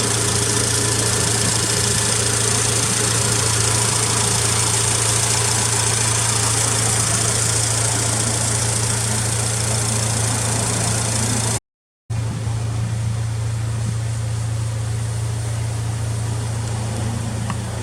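Honda Civic Type R engine idling steadily through an aftermarket FEEL'S muffler. It breaks off for a moment near the middle and resumes a little duller.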